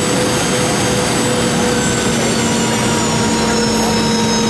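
Boeing 717's Rolls-Royce BR715 turbofans and rushing airflow, a steady loud drone with several steady whining tones over it.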